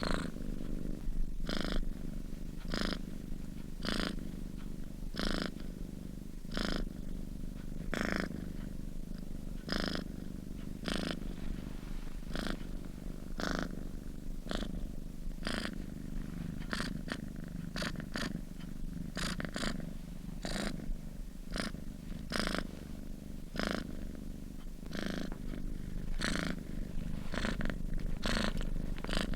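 Sleeping domestic cat purring steadily, the purr swelling with each breath about once a second, the breaths coming a little faster in the second half.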